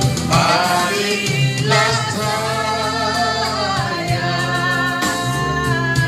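Several voices singing a song together over steady sustained low accompaniment notes.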